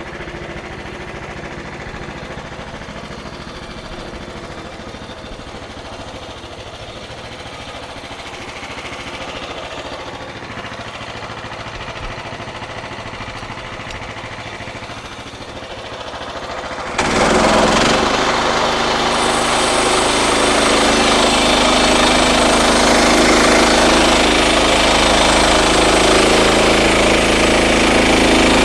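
Frontier OS31 portable bandsaw mill running steadily. A bit over halfway through the sound suddenly jumps louder and harsher as the mill goes to full speed and the band blade cuts through the red oak log. It stays at that level to the end.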